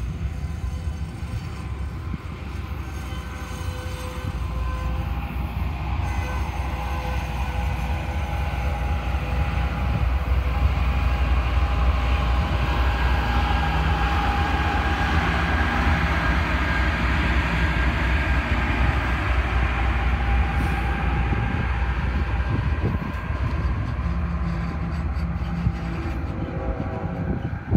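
Union Pacific double-stack container train rolling past at close range, a steady rumble of steel wheels on rail. It grows louder through the middle as a mid-train diesel locomotive passes, adding steady engine tones.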